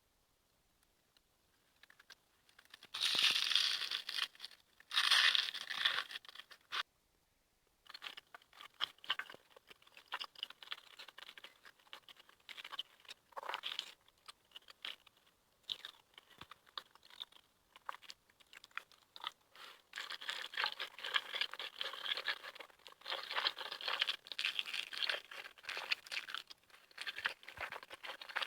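Close-miked eating of noodles: two long slurps a few seconds in, then chewing with many small crackling clicks.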